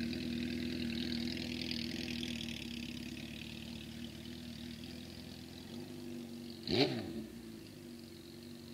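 1974 Honda CB750 chopper's air-cooled inline-four engine running at low revs as the bike moves off, growing fainter as it goes. About seven seconds in, a short quick rev rises and falls.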